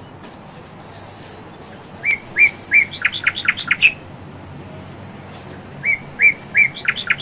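A bird singing two phrases, each made of three short whistled notes followed by a quick run of sharper, rising notes.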